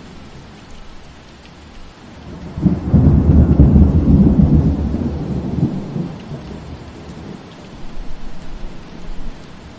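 Steady rain with a deep rumble of thunder that swells up about two and a half seconds in, holds for a couple of seconds and dies away, followed by a weaker rumble near the end.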